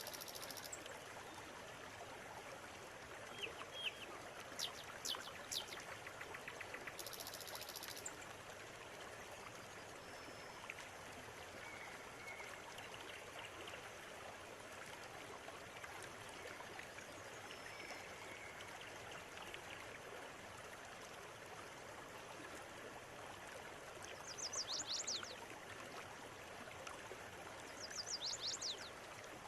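River water running steadily, with songbirds calling now and then: quick high chirps and trills in the first eight seconds, a few faint notes midway, and two short bursts of rapid high notes near the end.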